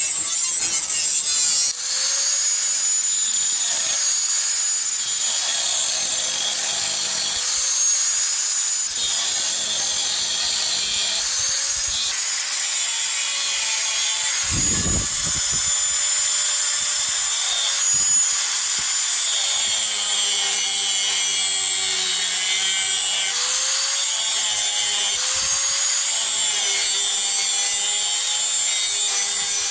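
Electric grinder working the bearing steel: a steady high whine over a rough grinding noise, the motor's pitch dipping and recovering as it is pressed into the metal.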